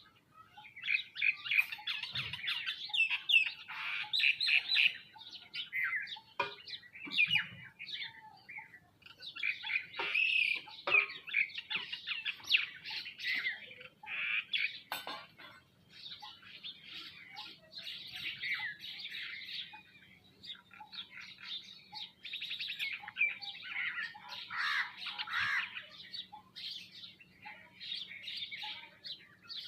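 A flock of sparrows, mynas and other small songbirds chirping and squawking at once in a dense, overlapping chatter while they feed, with a few sharp taps in between.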